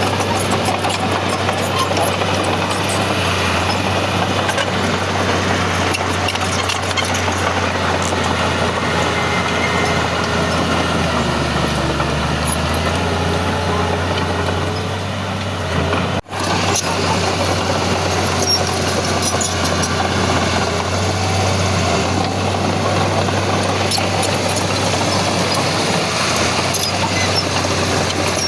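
Heavy diesel engine of earthmoving machinery running steadily, with the engine note dropping for a few seconds around the middle. A sudden, momentary break comes just after two-thirds of the way through.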